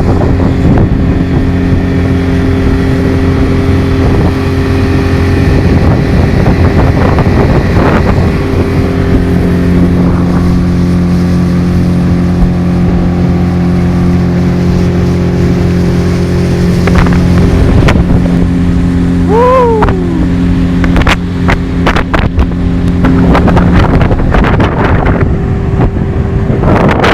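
Motorboat engine running steadily under way, its pitch shifting a little a few times, with wind buffeting the phone's microphone. A short falling whine comes about two-thirds of the way through.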